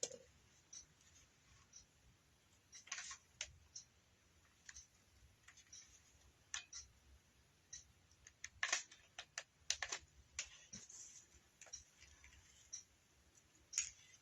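Irregular light clicks and taps from hand work with a hot glue gun and craft materials, with a quick cluster of clicks about nine seconds in.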